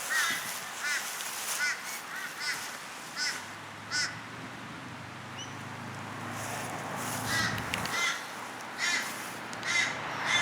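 A crow calling over and over, a run of short harsh caws about one every half second, a pause of about three seconds, then a second run. A faint low hum rises in the pause.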